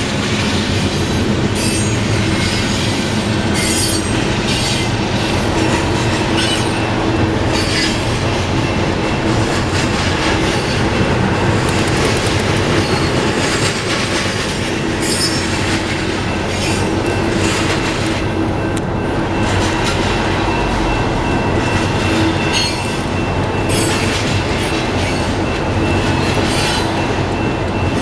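Union Pacific double-stack container freight train rolling past close by: a steady rumble of steel wheels on rail, with frequent clanks and brief high wheel squeals.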